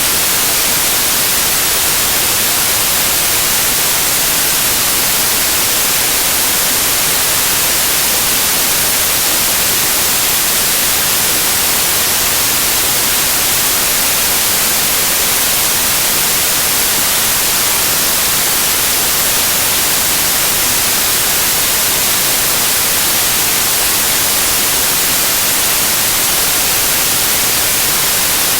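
Loud, steady white noise: an even hiss with no changes, weighted toward the high end.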